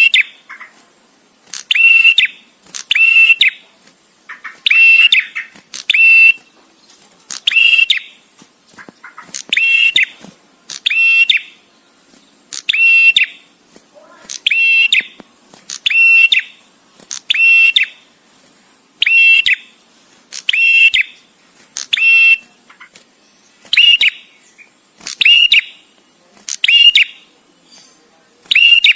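Male prenjak tamu, a prinia, calling: a loud, high, ringing chirped phrase repeated over and over about every second and a half, with short gaps between phrases, as in a looped training recording for songbirds.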